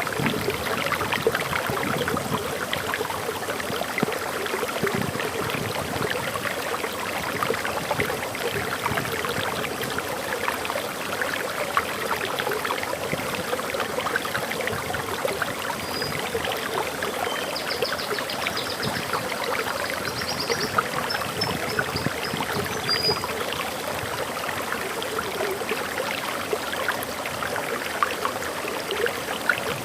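Waterfall water flowing and splashing in a steady rush. A bird gives a few short, high chirps about halfway through.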